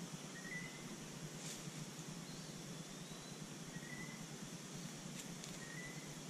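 Quiet outdoor ambience with a steady hiss, over which a bird gives three faint, short chirps and one longer sliding note.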